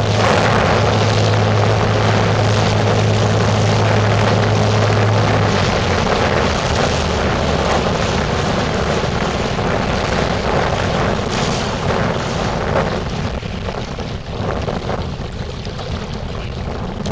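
Motorboat engine running under way, with the rush of wind and water. Its steady low drone fades out about five seconds in, and the whole sound eases off over the last few seconds, as when the boat slows down.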